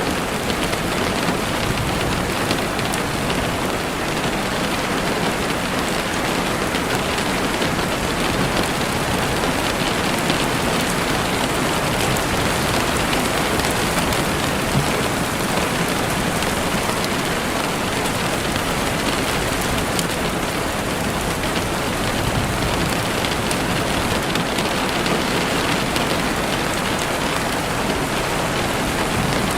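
Steady heavy rain falling in a forest, with faint scattered campfire crackles.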